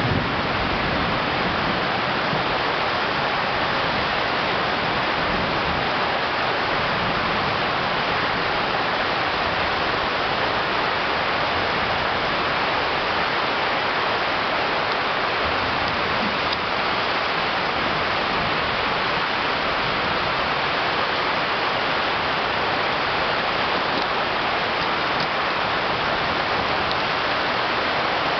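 Heavy tropical downpour: torrential rain falling steadily, a dense even rush with no let-up, with running water mixed in.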